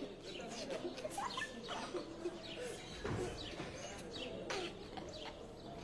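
Birds chirping: short calls that sweep downward in pitch, about two a second.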